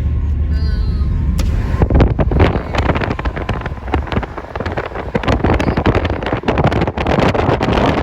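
Car driving along a road: a steady low rumble of road and engine noise, with wind buffeting the microphone in gusts from about two seconds in.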